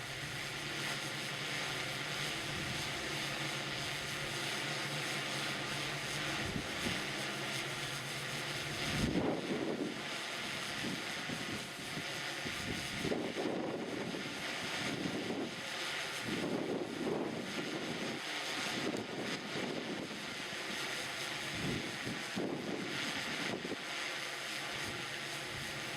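Multirotor drone's propellers buzzing steadily in flight, with wind gusts buffeting the microphone from about nine seconds in.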